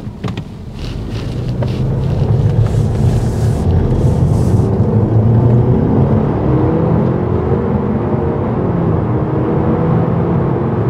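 Turbocharged 2.0 TFSI four-cylinder of a Stage 1-tuned 2013 Audi A4 under hard acceleration at full boost, heard from inside the cabin. The engine note builds about two seconds in and climbs in pitch, dips briefly near nine seconds, then climbs again. A few clicks come right at the start.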